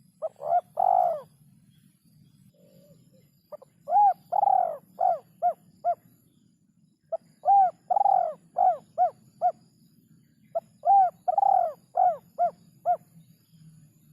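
Spotted dove (derkuku) cooing: three repeated phrases, each a short lead note, a longer drawn coo, then four or five short clipped coos, after a brief partial phrase at the start. It is a song rhythm that the keeper calls very hard to find.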